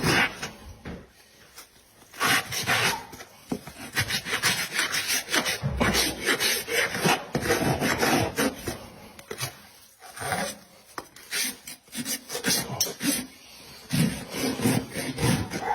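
Horse's hoof being scraped and rasped: repeated, uneven rasp strokes across the hoof wall.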